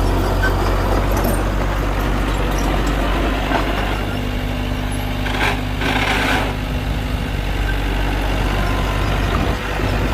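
Heavy diesel engine of earthmoving equipment running steadily, with two short bursts of hiss, like air being let out, a little past the middle.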